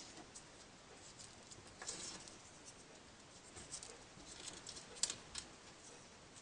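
Folded paper units of a 3D origami model rustling and clicking faintly as they are handled and pushed into place: a short rustle about two seconds in, then a run of small clicks, the sharpest near the five-second mark.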